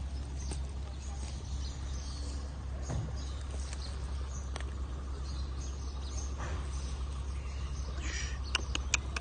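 A bird giving a quick series of short, sharp chirps near the end, over a steady low rumble and scattered faint clicks.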